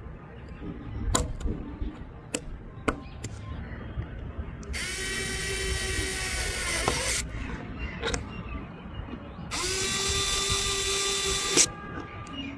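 A miniature model engine's small motor whirring in two runs of about two seconds each. Each run spins up quickly and then holds a steady pitch. A few sharp clicks come before the first run.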